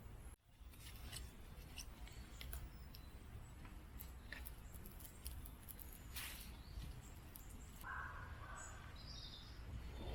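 Quiet woodland ambience with faint scattered clicks and crackles, and short bird chirps about eight seconds in and again near the end.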